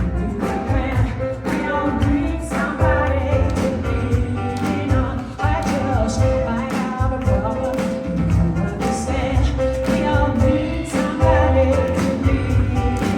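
Live soul-pop performance: a woman singing over a band with bass and a steady drum beat.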